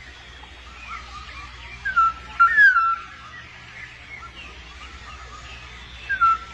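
Black-naped oriole giving short fluty whistled phrases of falling notes, about two seconds in and again near the end.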